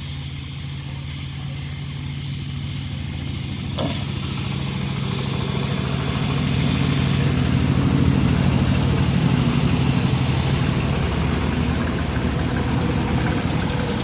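A vehicle engine running steadily, growing louder through the middle and easing off near the end, with a steady hiss over it.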